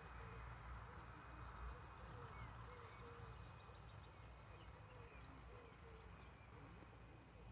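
Faint outdoor ambience: many short, warbling animal calls, each a quick rise and fall in pitch, repeating over a steady low rumble.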